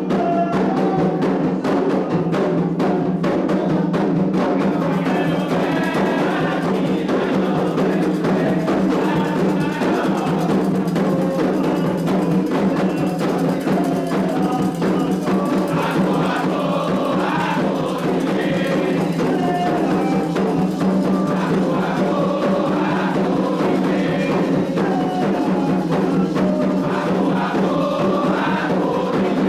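Candomblé ritual music: drums and percussion played steadily under group singing.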